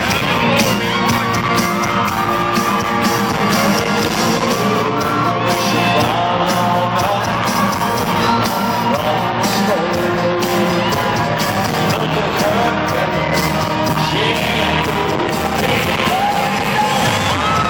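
Live country band playing loudly and steadily, with a lead singer's voice over it.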